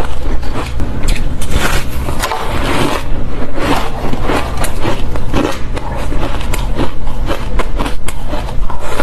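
Fluffy, squeaky ice being bitten and chewed: a loud, continuous run of irregular crisp crunches, several each second.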